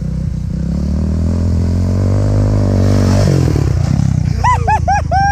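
An off-road vehicle's engine revs up, climbing in pitch and held at high revs, then drops off suddenly about three seconds in as the throttle is released. Near the end comes a quick run of short, high rising-and-falling sounds.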